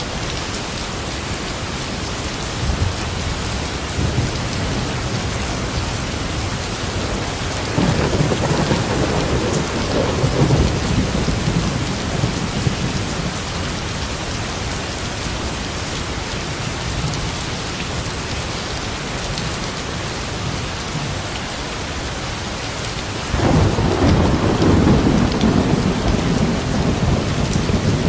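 Steady rain falling, with a roll of thunder about a third of the way in and another that starts suddenly near the end, each a low rumble lasting several seconds over the rain.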